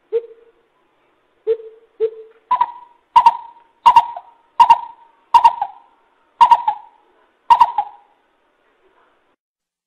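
Coucal calling: three low hoots, then a run of seven louder, higher hooting notes about two-thirds of a second apart.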